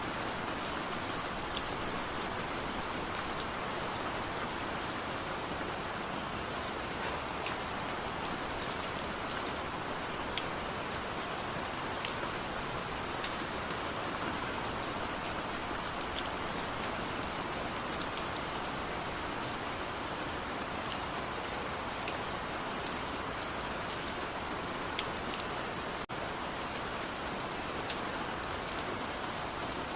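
Steady rain falling, an even hiss with sharp ticks of individual drops hitting a surface.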